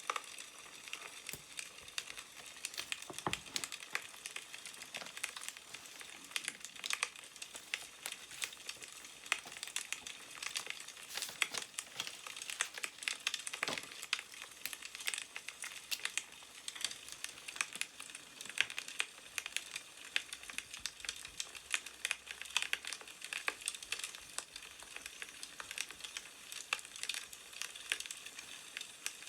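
Wood fire crackling: a steady hiss with dense, irregular little pops and snaps.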